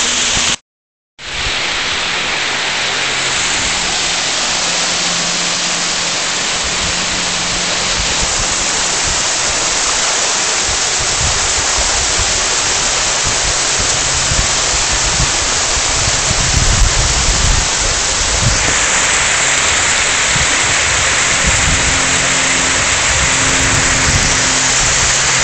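Waterfall rushing, a steady, loud wash of water noise. The sound drops out completely for about half a second near the start, and there is a stretch of low rumbling around the middle.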